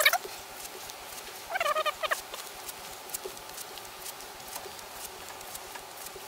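A bird calling: one short, rapidly warbling call about a second and a half in, over a faint steady background with a few light ticks.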